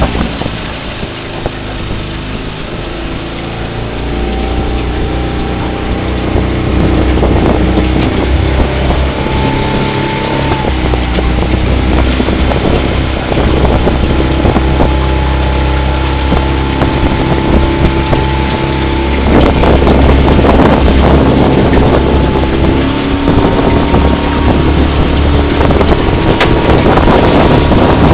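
Outboard motor of a coaching launch running steadily, with wind buffeting the microphone. It gets louder about two-thirds of the way through.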